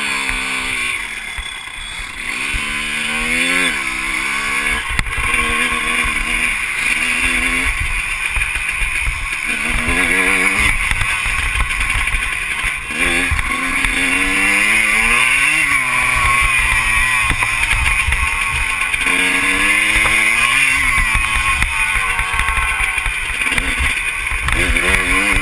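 Motocross bike engine revving up and down over and over, its pitch climbing and dropping every second or two, over a steady rushing noise.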